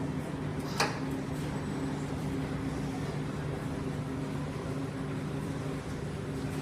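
Steady low machine hum of coin-laundry machines, with a single sharp click about a second in.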